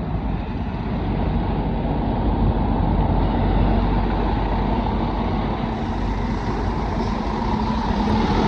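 Scania R450 truck's diesel engine running steadily on the road, a continuous low drone mixed with road and wind noise.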